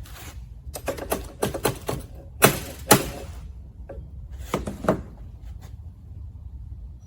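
Sharp clicks and knocks as the trike's axle shaft is worked into place: a quick run of clicks about a second in, two loud knocks near the middle, and a few more clicks shortly after.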